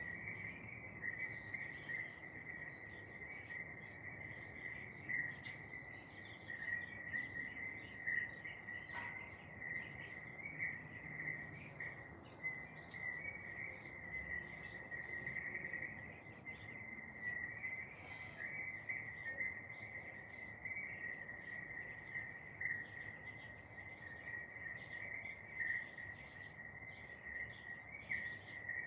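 A continuous, steady high trill, like an insect chorus, with garden birds chirping in short, scattered calls over it.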